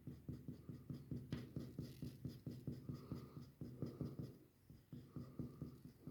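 Fast, faint scratching strokes of a drawing tool on paper, several a second, as an area is coloured in.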